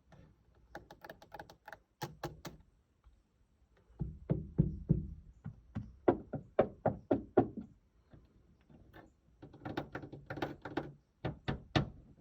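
A series of soft knocks and thuds in irregular clusters, fastest in the middle at about four or five a second, with short quiet gaps between the runs.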